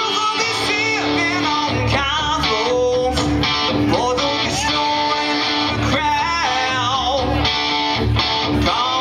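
A live band playing a guitar-led song: guitar with a steady drum beat underneath and a singing voice over it.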